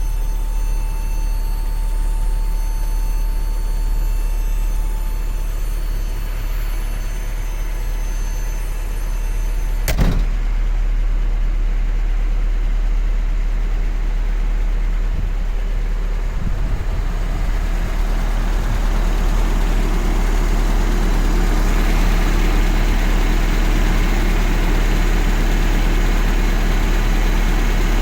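Isuzu truck engine idling with a steady low rumble. About ten seconds in there is a single sharp knock, and later the engine grows louder and keeps running at a steady pitch.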